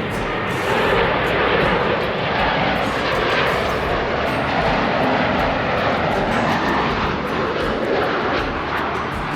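Airliner engines of a plane flying near the airport, a loud steady rushing noise.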